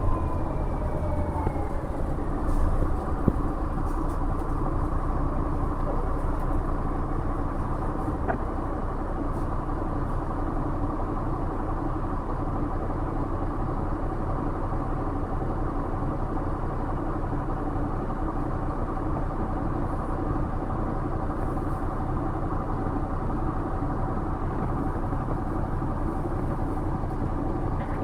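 Inside a MAZ-107.466 bus under way: the Mercedes-Benz OM 906LA inline-six turbodiesel runs steadily, with low road rumble. A falling whine is heard in the first couple of seconds.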